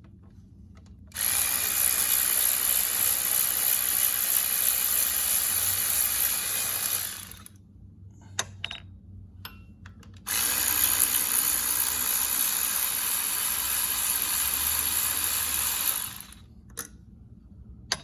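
Hand-held power tool running in two long runs of about six seconds each, spinning out the water pump's bolts with a 12 mm socket. A few sharp clicks between the runs.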